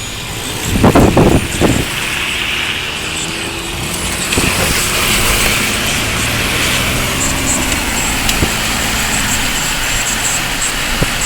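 Steady rushing noise of heavy rain and a flood-swollen creek, with a loud, brief disturbance about a second in.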